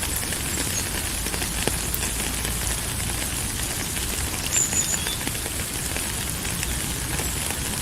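Steady rain falling, a dense even hiss of many small drop ticks. A brief high chirp sounds about four and a half seconds in.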